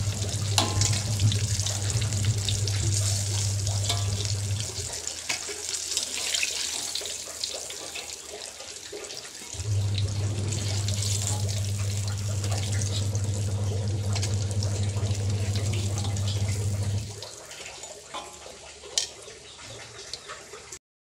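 Battered chicken deep-frying in a wok of oil: a dense crackling sizzle with scrapes and clicks of a metal spatula lifting the pieces out. A steady low hum runs under it, cutting out about five seconds in, returning near the middle and stopping again about four seconds before the end, when the sizzle also drops to a quieter hiss.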